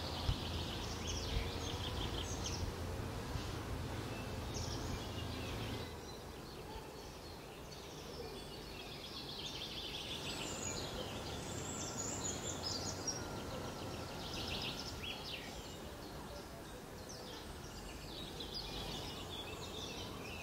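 Songbirds chirping and trilling on and off over a steady outdoor background rumble; the low rumble drops off about six seconds in.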